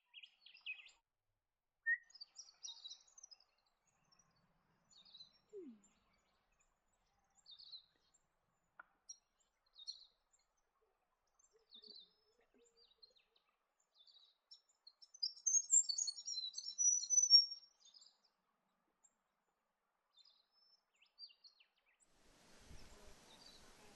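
Birds calling: short, high chirps every second or two, with a louder run of rapid chattering notes from about 15 to 17 seconds in.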